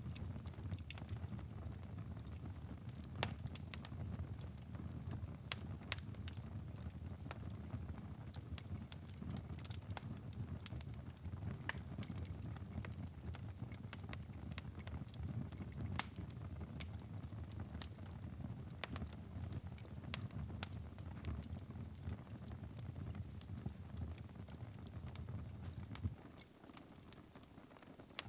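Wood fire crackling in a fireplace: a steady low rumble of the flames with scattered sharp pops and snaps. The low rumble drops away for a moment near the end.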